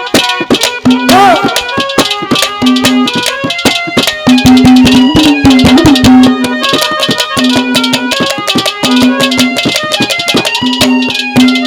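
Instrumental interlude of Haryanvi ragni folk music: a held reed-instrument melody over rapid, dense hand-drum strokes.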